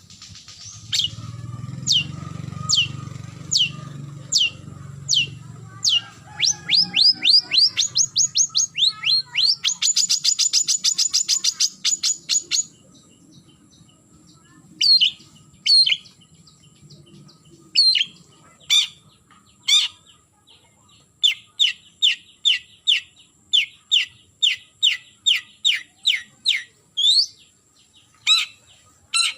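Long-tailed shrike (cendet) giving its challenge call to a rival: sharp, falling notes about two a second that speed up into a rapid trill about ten seconds in. The trill breaks off, a few scattered notes follow, then another even series of notes.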